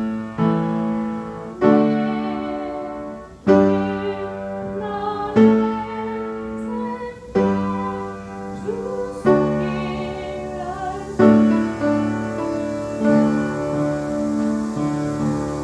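Chapel piano playing a slow praise hymn, a new chord struck about every two seconds and left to ring.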